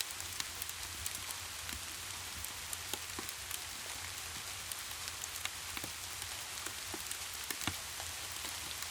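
Rain-and-fireplace ambience: a steady hiss of rain with many scattered sharp ticks and pops, over a low steady rumble.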